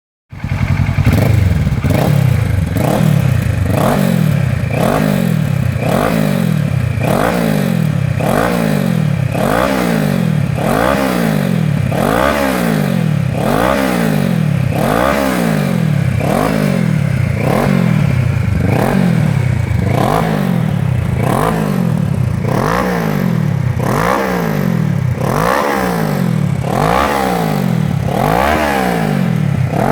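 Kawasaki ER-6f's 649 cc parallel-twin engine revved over and over through a de-cat exhaust with the catalytic converter removed. The pitch climbs and drops about once a second, blip after blip.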